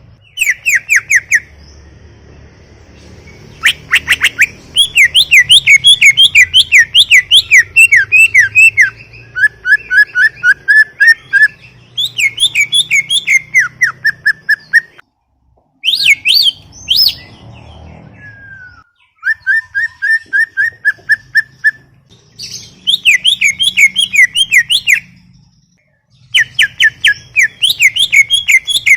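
Cucak ijo (greater green leafbird) singing loudly: phrases of rapid, repeated down-slurred whistled notes, several to a second, broken by short pauses and varied between higher sweeping runs and lower, level trills.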